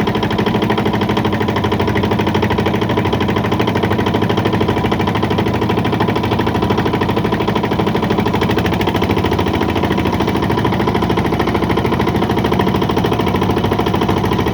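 An engine running steadily at an even speed, with a fast regular pulsing.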